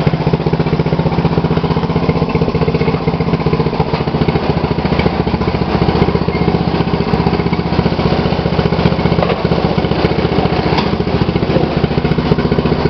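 2012 MTD lawn tractor engine running steadily, with a fast, even firing beat.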